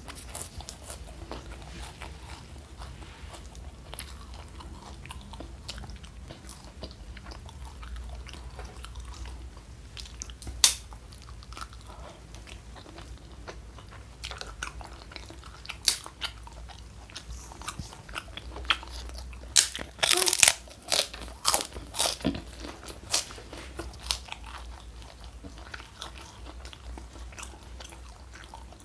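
Close-miked eating: wet chewing with scattered sharp, crunchy bites, loudest in a quick run of crunches about two-thirds of the way through.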